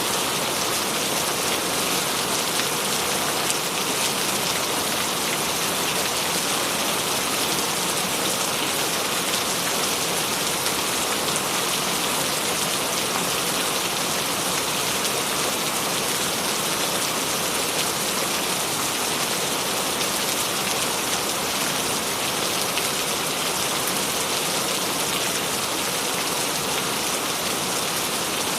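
Steady rain falling on a surface, a dense even patter of drops with no thunder or other events.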